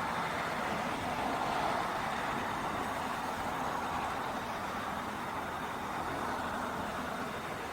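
Steady, even noise of distant road traffic.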